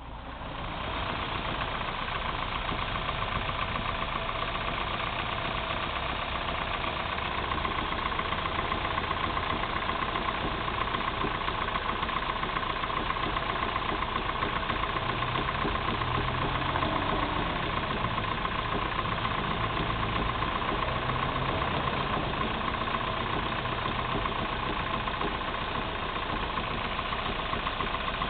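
Opel C20NE 2.0-litre four-cylinder engine running cold with a steady, rapid knock.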